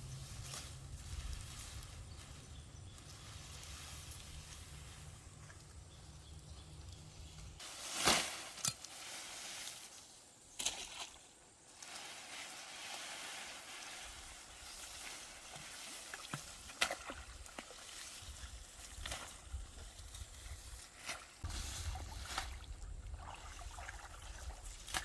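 Shallow stream water trickling and sloshing, with scattered knocks and splashes and one sudden loud noise about eight seconds in.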